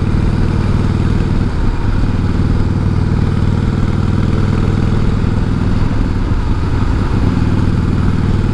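1988 Harley-Davidson Heritage Softail's 1340 cc Evolution V-twin engine running steadily at an even speed, with no rise or fall in pitch.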